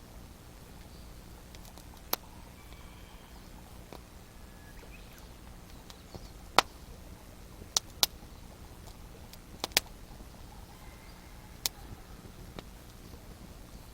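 Wood fire crackling: a low steady background broken by about seven sharp pops at irregular intervals, two of them in quick pairs.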